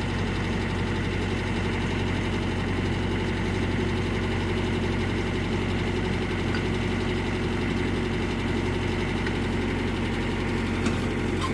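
Diesel engine of a Mitsubishi backhoe running steadily, a low even hum with no change in speed.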